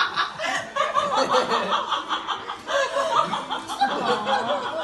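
Laughter: a run of giggles and chuckles in quick pulses that goes on without a break.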